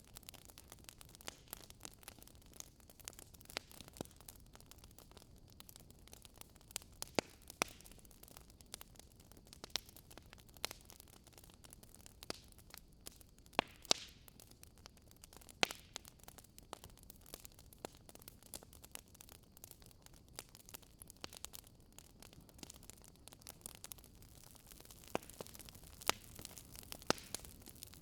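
Wood fire crackling in a fireplace: irregular sharp pops and snaps over a soft, steady hiss of burning logs.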